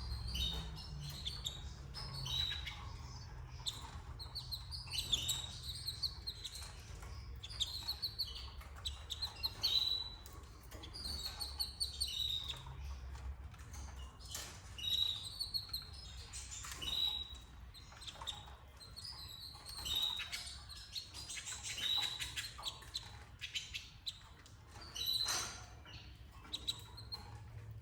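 Canaries chirping: short high calls repeated irregularly, about one every second or two, over a low steady hum.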